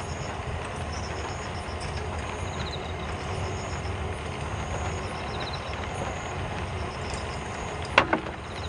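Heavy rain falling steadily, with faint high chirping repeating in the background and a single sharp knock near the end.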